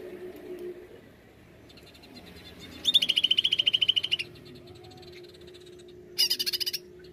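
Male greater green leafbird (cucak ijo) giving rapid rattling trills, the fast 'nembak' bursts. A loud trill comes about three seconds in and lasts over a second, and a shorter, higher burst comes near the end. A faint steady low hum runs underneath.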